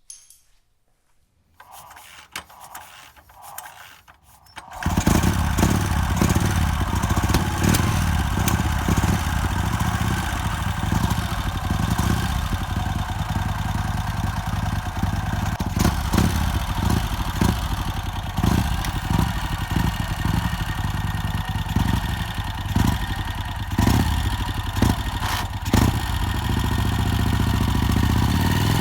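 A 1951 Vincent Rapide's V-twin engine starting: a few seconds of light clatter, then the engine catches about five seconds in and keeps running steadily, with small surges.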